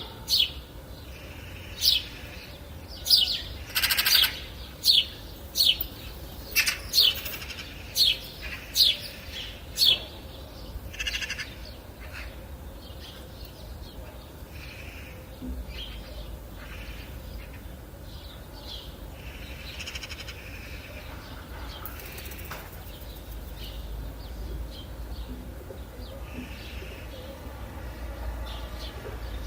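Wild birds calling: a run of loud, sharp calls, each sweeping downward in pitch, about once a second for the first ten seconds, then fainter scattered chirps over a steady low rumble.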